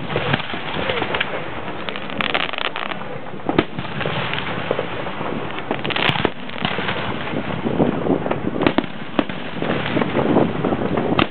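Aerial fireworks shells bursting in quick succession: a steady run of bangs and sharp pops overlapping one another.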